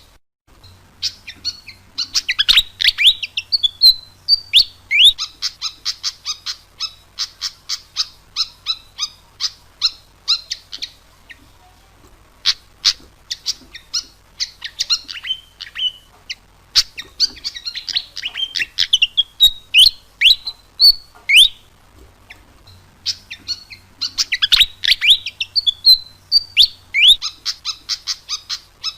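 Pied fantail (burung kipasan) singing: a fast, unbroken string of high chirps broken by clusters of sweeping notes that fall in pitch, with short lulls about twelve and twenty-two seconds in.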